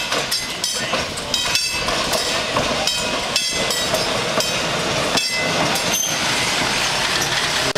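Train running along the track, with a steady, loud rolling noise of wheels on rails.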